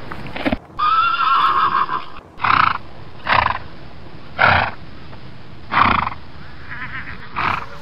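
Horse whinnying once, a high wavering call lasting about a second and a half, followed by a series of short noisy bursts about once a second.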